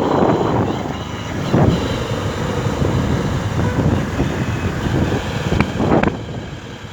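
Wind rushing over the microphone on a moving motorcycle, mixed with engine and road noise, with a few sharp knocks along the way.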